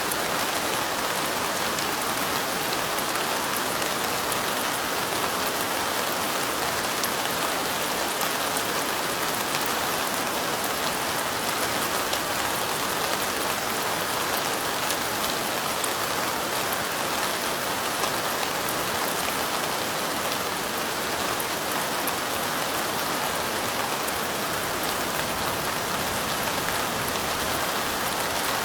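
Steady light rain falling: an even hiss with fine, dense drop patter, unchanging throughout.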